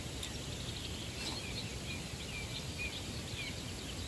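Birds calling in scattered short chirps and whistles over a low, steady background rumble.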